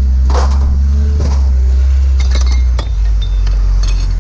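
Pieces of scrap metal clanking and ringing as they are thrown down, several sharp strikes over a few seconds, over the steady low hum of a heavy engine running.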